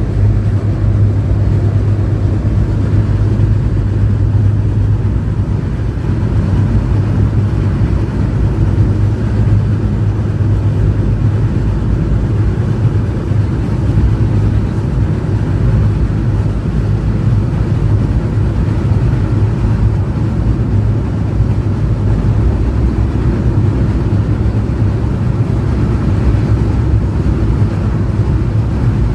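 Passenger train running steadily on the track: an even, loud low rumble that holds without a break.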